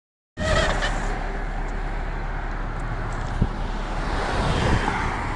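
Road traffic and idling vehicle engines, a steady rumble with a low hum, and a single knock about three and a half seconds in.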